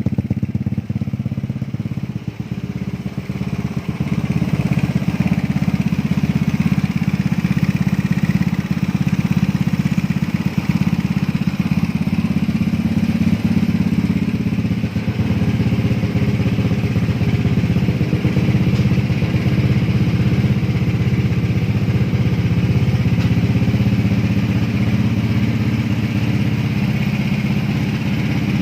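Yamaha Fino scooter fitted with a 220cc four-valve liquid-cooled engine, running steadily with a brief dip in loudness about two seconds in.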